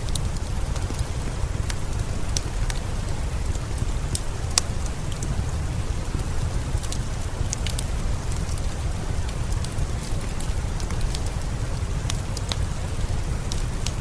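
Steady rain with a low rumble underneath, and wood-fire crackling over it: scattered sharp pops, with one louder pop about four and a half seconds in.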